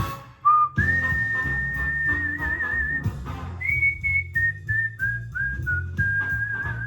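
A tune whistled in clear single notes. There is a short note, then a long held one that wavers at its end, a higher note, and a run of short notes stepping down into another long note with vibrato. A backing track with a bass line plays under it.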